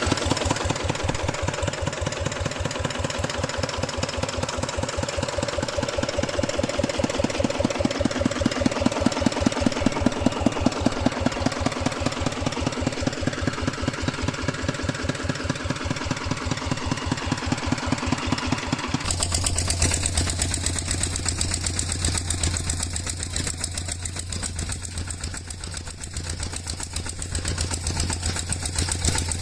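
Tractor-type engine running with a rapid, even chugging beat. About two-thirds of the way through it switches abruptly to a different, deeper engine sound with a strong low hum.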